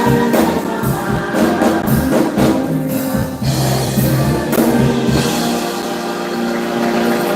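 Gospel music: a choir singing with instrumental backing and a steady tambourine beat.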